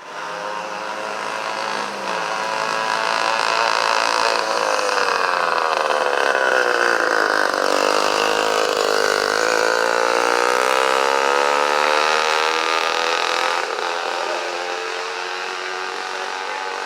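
A small engine running hard at a high pitch; about halfway through its pitch slides down, then climbs back up and holds.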